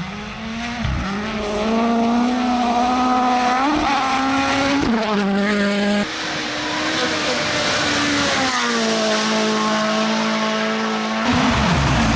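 Rally car engines at high revs, the note climbing and dropping with gear changes. It switches abruptly to another car's engine about six seconds in, which holds a steady pitch, and again near the end.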